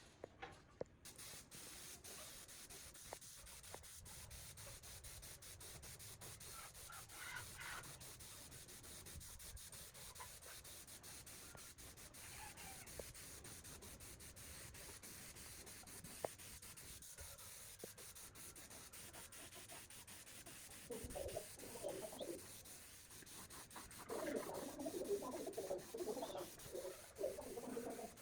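Steady rubbing and scraping, as of hand sanding, with many small clicks; louder, wavering mid-pitched sounds come in during the last few seconds.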